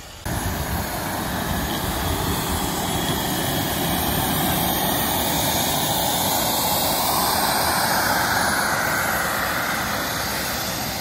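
Radio-controlled model jet's small turbine engine running with a rushing roar and a thin high whine. It builds to its loudest about two-thirds of the way through, then eases off near the end.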